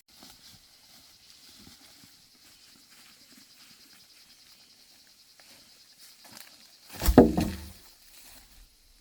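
Faint shuffling and light footsteps, then one loud, heavy thud about seven seconds in, with a short low rumble after it.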